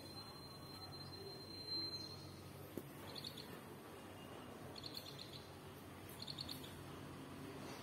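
Faint bird chirping: three short trills of a few quick notes each, about a second and a half apart. Before them a thin, steady high whistle stops about two seconds in.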